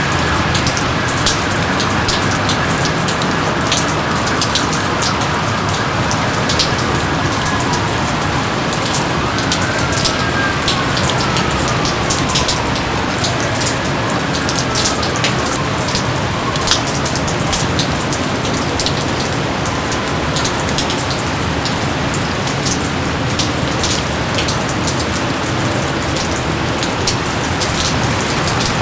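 Steady rain falling in a jungle, with a constant hiss and many distinct drops pattering close by. A few faint falling whistles sound through the rain in the first half.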